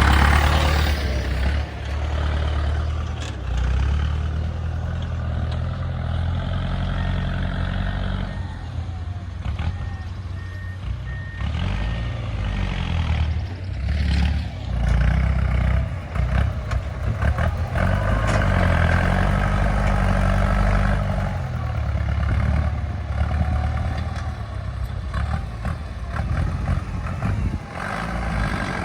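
Heavy diesel machinery engine running and revving up and down under load. A short run of warning beeps sounds about ten seconds in.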